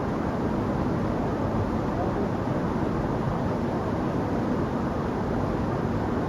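Waterfall rushing: a steady, unbroken wash of falling water, heaviest in the low and middle range.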